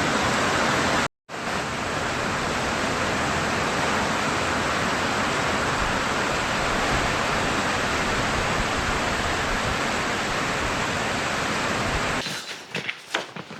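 Heavy rain pouring down hard, a loud, steady hiss. It cuts out for an instant about a second in and falls away near the end.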